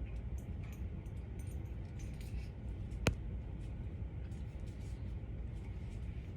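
Light clicks and taps from a pet sun conure moving about its cage and toys, with one sharp click about three seconds in, over a steady low rumble.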